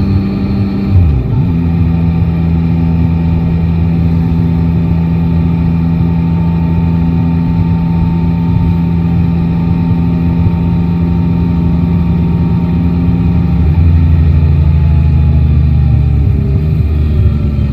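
Yamaha Tracer 9 GT three-cylinder motorcycle engine and exhaust running under way at a steady pitch, with a gear change about a second in and a louder, deeper note from about fourteen seconds in.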